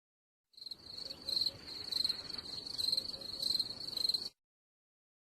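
Crickets chirping: a rapid, high, pulsing trill that starts about half a second in and cuts off abruptly near the end.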